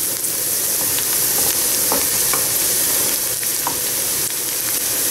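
Diced onion and carrot sizzling in coconut oil and butter in a frying pan, stirred with a wooden spatula, with a few light taps of the spatula against the pan.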